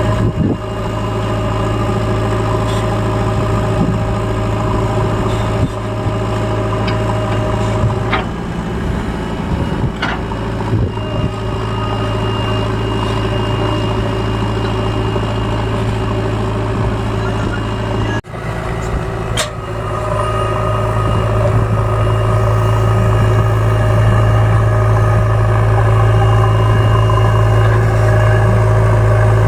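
Large diesel engine running steadily with a few sharp knocks. It dips briefly about two-thirds of the way through, then runs louder.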